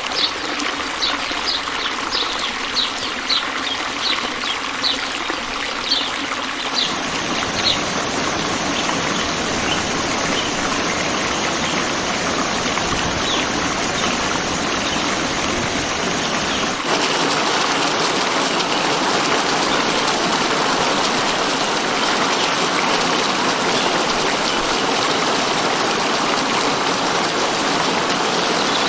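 Steady rush of running water, with a bird chirping in short high notes about twice a second during the first several seconds. The water sound changes abruptly twice, at about 7 and 17 seconds in, as one recording gives way to another.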